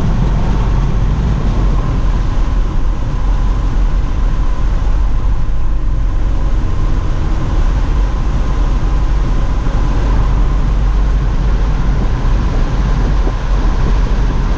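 Steady wind noise rushing through the open windows of a 2019 Ford Edge ST cruising at about 70 mph, heard from inside the cabin.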